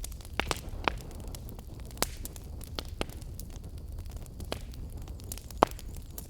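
Wood fire burning in a fireplace: a steady low rumble of flames with irregular sharp crackles and pops, one pop near the end louder than the rest.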